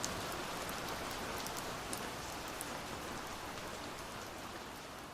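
Steady rainfall, a dense hiss with scattered sharp drop ticks, gradually getting quieter as it fades out.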